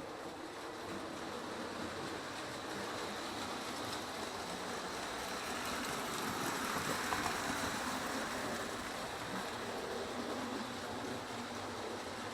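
Lionel O gauge toy trains running on tinplate track loops: a steady whirr of electric motors and clattering wheels, swelling a little louder in the middle as a train passes close.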